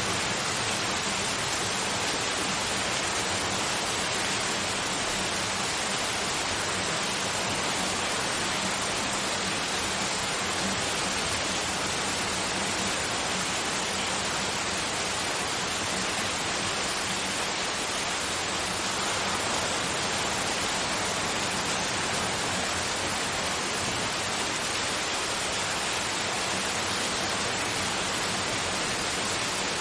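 Steady, unbroken synthetic white noise, an even hiss like rain or a waterfall, with no change in level or texture.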